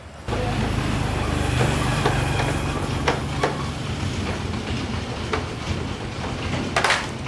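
Small four-stroke motorbike engine running at a steady idle, cutting in abruptly about a quarter second in. A few sharp clicks sound over it, with a louder rattle near the end.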